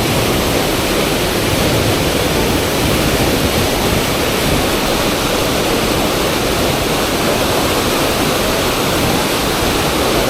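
Fast river water rushing steadily through a surfable standing wave: a loud, even rush with no pauses.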